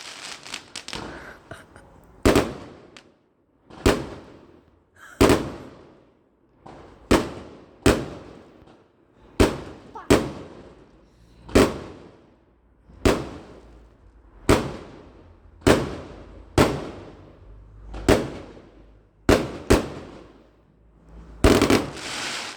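Fireworks exploding: a steady series of loud bangs, about one every second, each trailing off in an echo.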